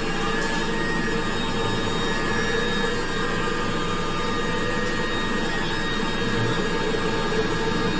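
Glasgow Subway train running through the tunnel, heard from inside the car: a steady rumbling hiss with a few faint, steady whining tones.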